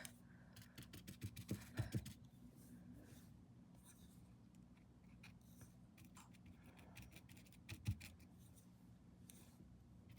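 Faint scratching and light tapping of a paintbrush working paint onto paper, with a couple of soft knocks, one about two seconds in and one near eight seconds.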